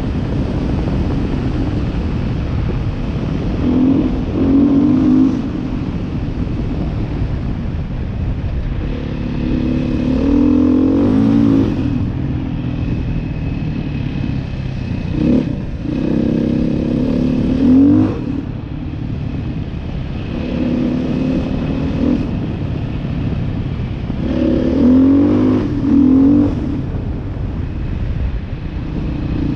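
Beta 500 RR-S single-cylinder four-stroke dual-sport motorcycle engine running under way, rising in pitch with the throttle and dropping back several times over a steady background rush.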